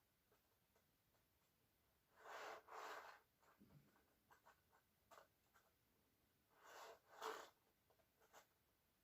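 Faint handling noise: light scattered clicks and two pairs of short soft rustling swishes, about two and seven seconds in, otherwise near silence.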